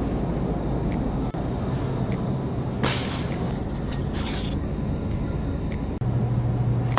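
A vehicle's engine and road noise hum steadily, with two short hisses about three and four seconds in.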